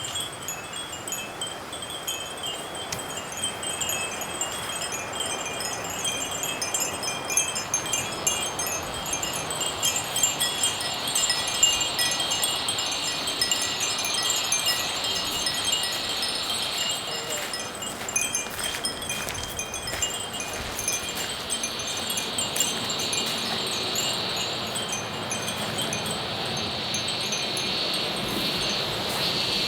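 Many Japanese wind chimes (fūrin) tinkling continuously in the breeze, light overlapping rings. Under them a steady insect trill rises for a few seconds in the middle and again near the end.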